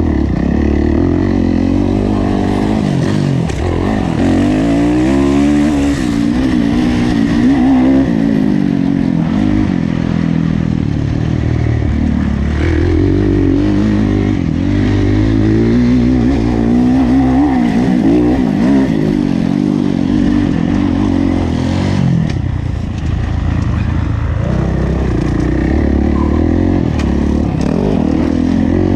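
Kawasaki KX450F's single-cylinder four-stroke engine being ridden hard around a motocross track, its pitch rising and falling over and over as the throttle is opened and shut and gears change.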